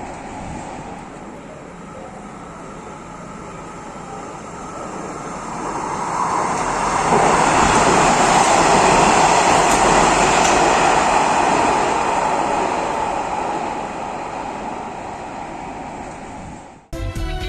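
A metro train passing by: a steady rumble and rush that swells for several seconds, is loudest in the middle, then fades away, cut off abruptly near the end.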